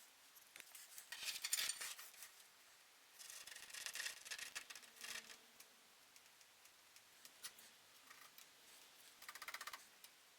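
Rubbing, rasping hand work in three bursts: one about a second in, a longer one around three to five seconds in, and a shorter one near the end.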